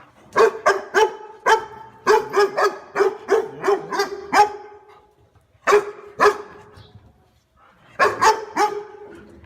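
A dog barking loudly in runs of sharp, rapid barks: about four, then a quick string of nine or so, then two, then three, with short pauses between the runs.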